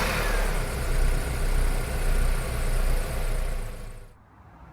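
Car engine idling steadily just after starting, then cutting off suddenly about four seconds in.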